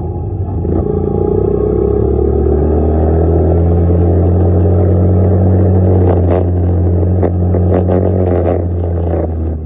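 Dirt bike engine running hard: the revs pick up about a second in and then hold steady and loud. Several sharp knocks or rattles come in the second half.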